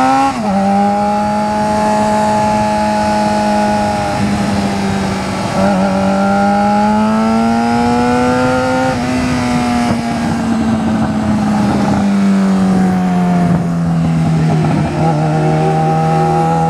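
Yamaha FZ6R's 600 cc inline-four running through a Two Brothers Black Series full-system exhaust with the decibel killer removed, very loud, held at high revs while being ridden. The engine note rises and falls slowly, with sudden drops in pitch near the start and about five and fifteen seconds in.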